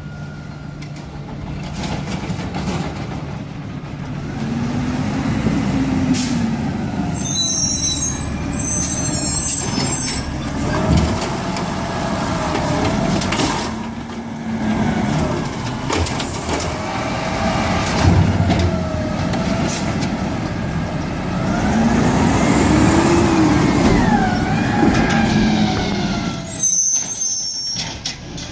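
Garbage truck's engine revving up and down several times, with short air hisses from its air brakes about a third of the way in and again near the end.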